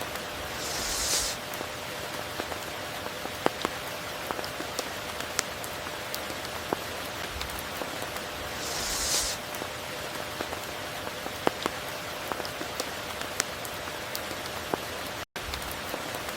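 Steady tropical rain: an even hiss with sharp individual drop hits scattered through it. A brief louder, higher hiss comes about a second in and again about nine seconds in, and the sound cuts out for an instant near the end.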